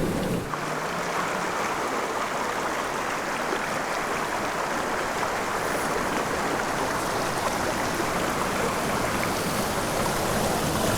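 Steady rush of flowing creek water, an even hiss. About half a second in, a deeper low rumble drops out.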